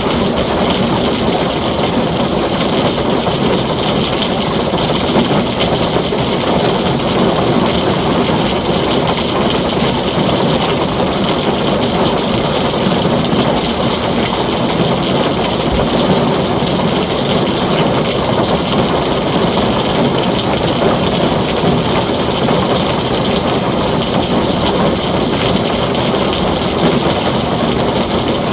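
Heavy rain falling steadily on a tin roof, an even, unbroken wash of noise.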